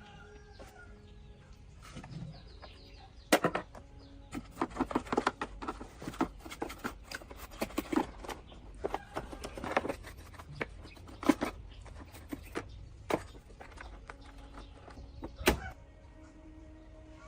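Irregular clicks, taps and knocks, a few of them sharp and loud, from hands handling and taking apart an old electric fan's parts.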